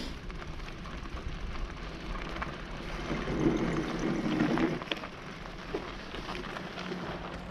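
Riding noise from an e-bike, with tyre noise and wind on the microphone. A car passes about three to five seconds in, its sound rising and then falling away.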